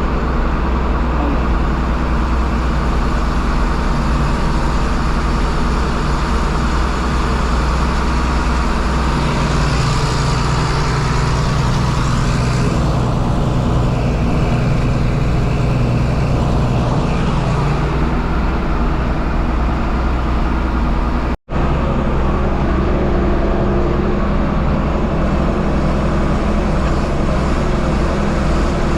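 John Deere 4640 tractor's six-cylinder turbo diesel running steadily under load in the field, with a strong low drone; it swells briefly about ten seconds in. The sound cuts out for an instant about two-thirds of the way through, then continues the same.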